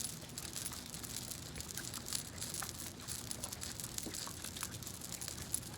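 Hands working olive oil into hair close to the microphone, a dense, steady crackling with a sharper click now and then.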